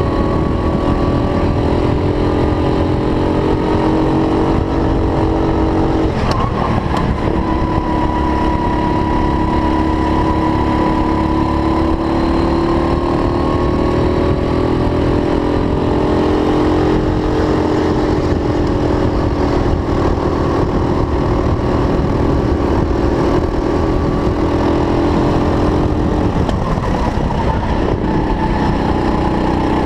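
Racing kart engine running hard under throttle, its pitch slowly rising and falling with the revs. It drops off briefly about six seconds in and again near the end as the driver lifts, then picks back up.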